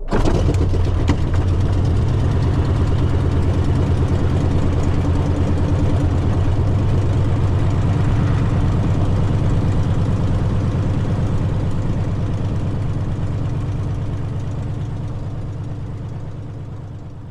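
Light aircraft's piston engine firing up on the starter and settling into a steady idle just after "clear prop". The sound fades gradually near the end.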